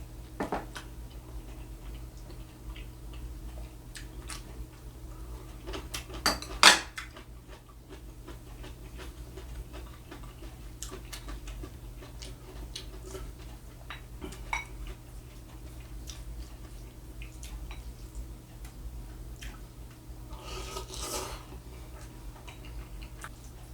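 Eating utensils clinking and scraping against a bowl: scattered light clicks, two sharp clinks about six and a half seconds in, and a short scrape near the end.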